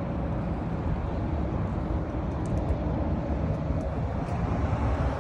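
Motorcycle riding along at a steady pace, a constant rumble that neither rises nor falls.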